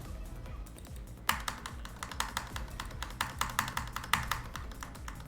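Online slot game audio: looping electronic background music with a steady low beat. About a second in, a rapid run of sharp clicking ticks joins it and lasts for most of the rest.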